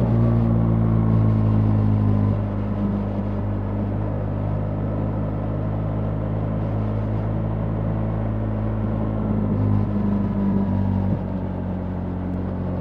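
BMW R 1300 GS boxer-twin engine running under way, with a steady low engine note and road noise. It is louder for the first couple of seconds, eases off about two seconds in, and drops again near the end, as the throttle is rolled back.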